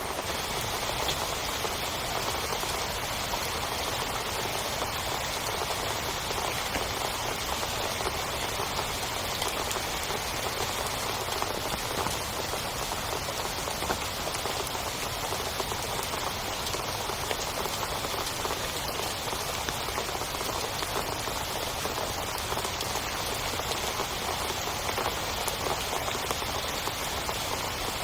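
Heavy rain falling steadily, a dense patter of drops hitting a surface without letup.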